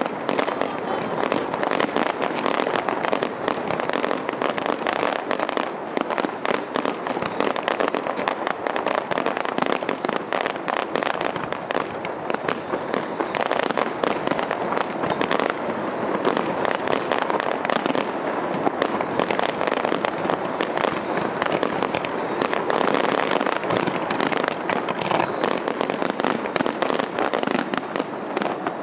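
Fireworks finale: a continuous, dense barrage of rapid pops and crackling from aerial shells bursting, with no let-up.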